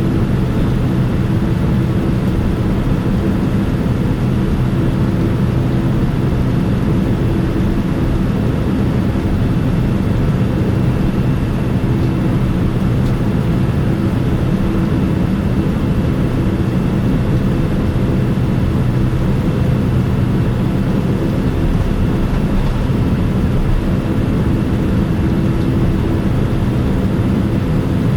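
Steady engine and air noise heard inside the cabin of a Boeing 787-9 airliner: a loud, even rumble with a few constant hums.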